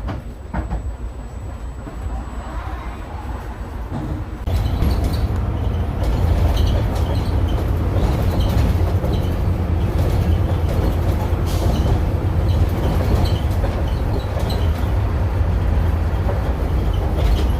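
Vintage bus heard from inside while riding: a steady low engine rumble with the body rattling and creaking. The engine grows louder about four and a half seconds in and stays that way.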